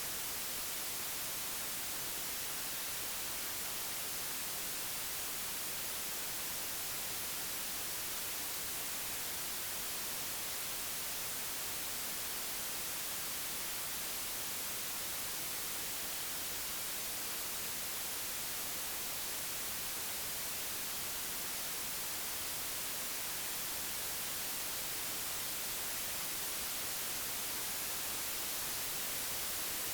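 Steady, unchanging digitally generated white noise: an even hiss, brightest in the treble, with no tones or events in it.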